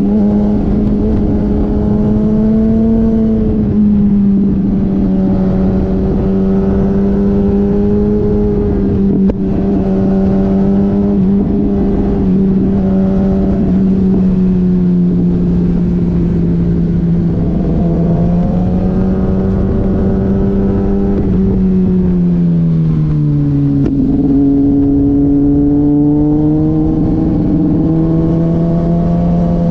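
Motorcycle engine running at high, fairly steady revs over a heavy rush of wind noise; about three-quarters of the way through the pitch drops, then climbs slowly again.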